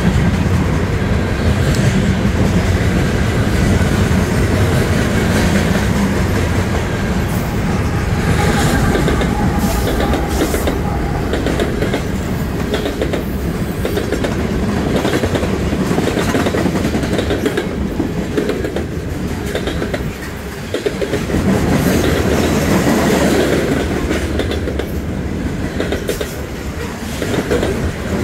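Norfolk Southern freight cars (trash gondolas, tank cars and covered hoppers) rolling past close by: a loud, steady rumble of steel wheels on rail with the clickety-clack of wheels passing over rail joints.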